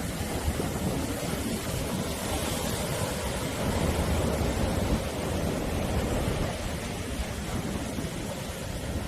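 Sea surf: waves breaking and washing in as a continuous rushing noise with a deep rumble, swelling slightly about halfway through.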